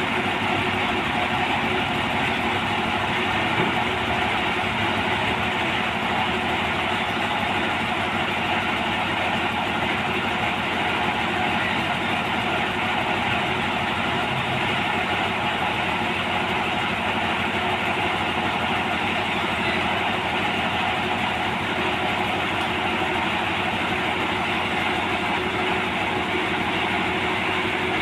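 Sawmill machinery running steadily at an even level, with no starts, stops or changes.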